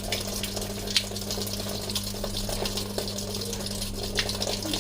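Water running into a Samsung top-load washing machine's tub as it fills, with a steady low hum underneath. The machine is taking in water normally after a failed sensor was replaced.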